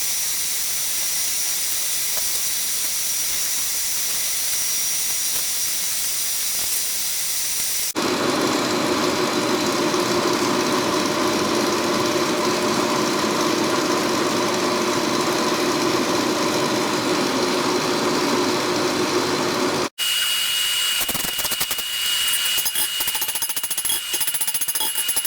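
Steady power-tool noise from metalworking, in three sections that change abruptly about eight and twenty seconds in.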